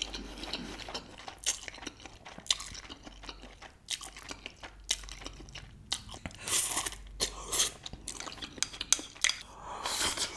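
Close-miked eating of Samyang Buldak 2x Spicy noodles: slurping and chewing mouthfuls, with irregular wet mouth clicks and smacks. Near the end there is a sip straight from the bowl.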